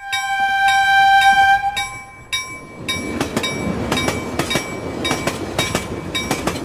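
A train horn sounds one long blast for about two seconds. Then a locomotive-hauled train passes close by, its wheels clattering in a quick clickety-clack over the rail joints.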